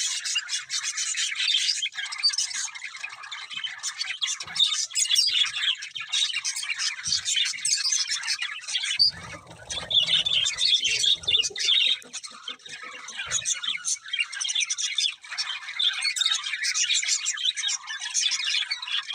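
Budgerigars chirping and warbling busily, many calls overlapping with no break. A dull low rustle joins in for a couple of seconds about nine seconds in.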